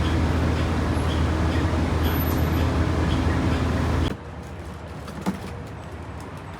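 A steady low mechanical rumble that stops abruptly about four seconds in, leaving a quieter hiss with a single click.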